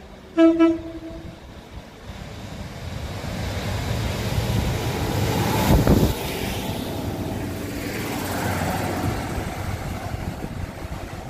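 Network Rail Class 950 track recording unit 950001, a diesel multiple unit, sounds a short horn blast about half a second in. It then passes close by with a rising rumble of engine and wheels that peaks around six seconds in and fades as it moves away.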